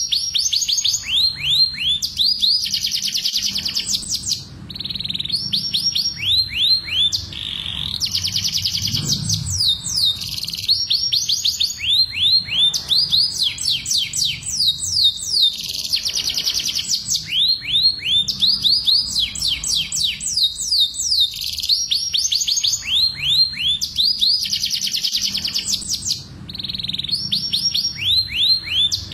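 Domestic canary singing: rapid trills of repeated downward-sweeping notes, delivered in phrases of a few seconds with short breaks between them.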